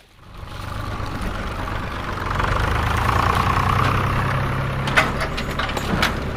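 Toy truck's engine sound starting up from quiet and running steadily, with a few sharp clicks about five and six seconds in.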